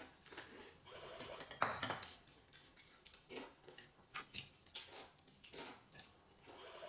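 Utensils clinking and tapping against dishes during a meal: scattered light clicks, with the loudest knock about one and a half seconds in.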